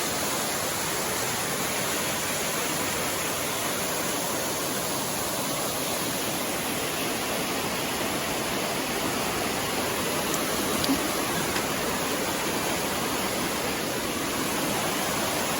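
Small mountain waterfall rushing steadily as creek water pours over rock.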